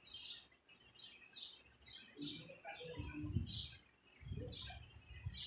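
Small birds chirping in the background: short, high, falling chirps about every half second. In the second half come two stretches of louder, low, muffled noise.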